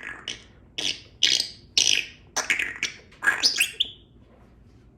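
Congo African grey parrot making a quick series of about eight short, high-pitched squawks and clicking calls over roughly four seconds, stopping just before the end.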